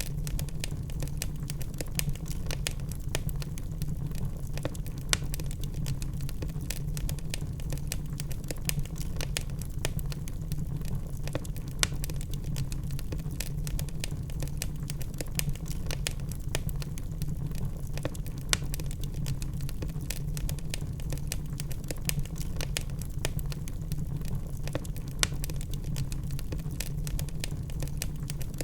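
Wood fire in a fireplace, logs burning and crackling: a steady low rumble with irregular sharp pops and snaps, a few of them louder than the rest.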